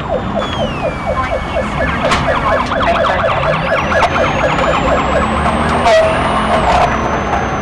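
Police car siren in a fast yelp, its pitch rising and falling about five times a second, breaking off and changing about six seconds in. A low vehicle rumble runs underneath.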